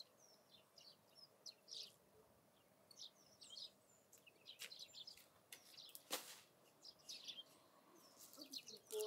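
Small birds chirping with short, scattered calls over a quiet background, with one sharp click about six seconds in.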